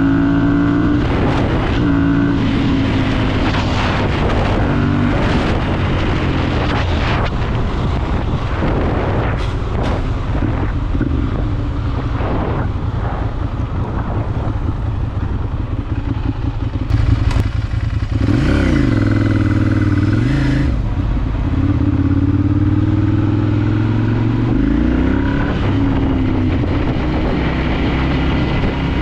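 Ducati Monster 796's air-cooled L-twin engine running under way, with wind noise on the microphone. About two-thirds of the way in, the engine note drops and then climbs again, and it rises once more a few seconds later.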